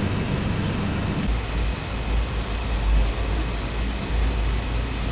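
Steady running noise inside a sleeper coach of an Indian passenger train. About a second in the sound changes suddenly: the high hiss drops away and a deep, even rumble takes over.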